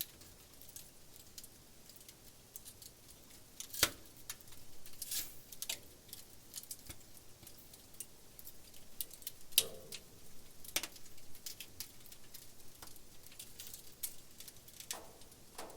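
Wood campfire crackling: irregular small pops and ticks over a faint hiss, with a few louder snaps about four seconds in and around ten seconds in.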